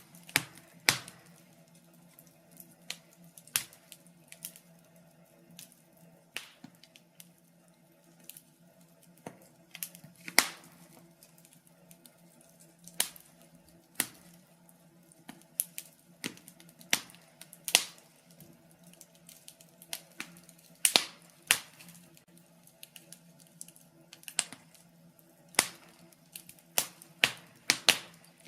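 Burning logs in a fireplace crackling: sharp pops and snaps at irregular intervals, several close together now and then, over a faint steady low hum.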